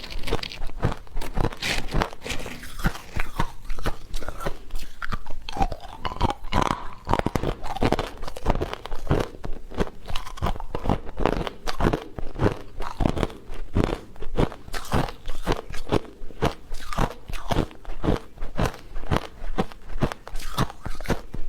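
Close-up crunching and chewing, with dense irregular crunches several times a second.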